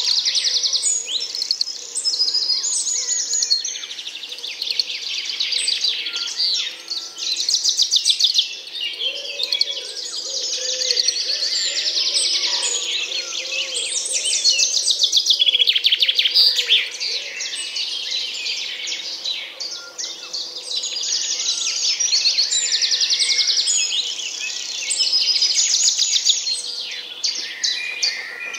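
A dense chorus of small birds chirping and trilling, with rapid high-pitched notes that overlap continuously and swell and fade every few seconds.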